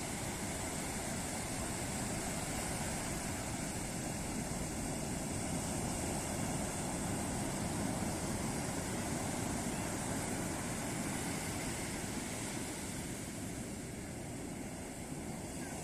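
Ocean surf breaking and washing on a beach: a steady wash of waves that swells a little midway and eases slightly near the end.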